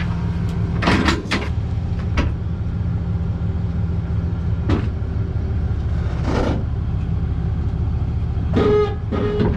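Pickup truck engine running steadily as the truck pulls out from under a fifth-wheel trailer's hitch, with several sharp knocks. The hitch has not locked properly on the kingpin, so the truck is pulling out to hitch again.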